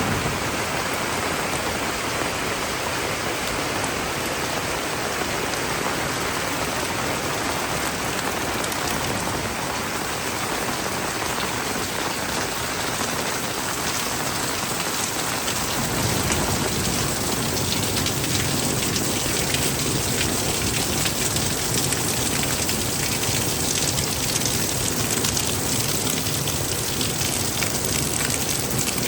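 Heavy tropical downpour, rain pouring steadily on surfaces; about halfway through it grows a little louder and deeper.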